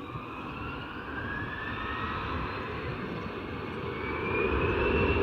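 Bombardier CRJ900 regional jet's twin turbofan engines spooling up for the takeoff roll: a rising whine over a steady roar that grows louder.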